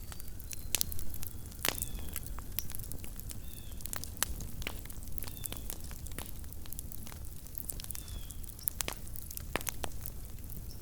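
A small wood campfire crackling: sharp, irregular snaps and pops over a low, steady rumble.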